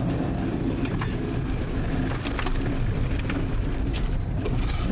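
Car moving slowly over a stony track: a steady engine and road rumble, with scattered sharp clicks and crackles of stones under the tyres.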